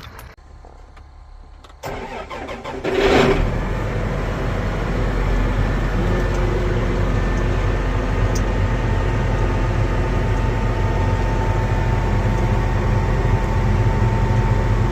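A diesel engine starting about three seconds in, then running steadily.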